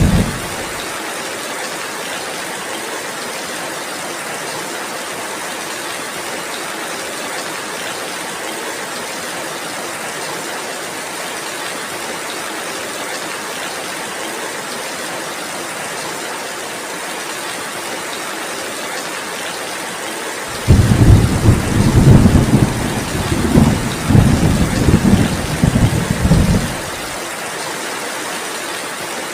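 Steady heavy rain hissing, with a deep rumble of thunder lasting about six seconds near the end. The tail of an earlier rumble dies away right at the start.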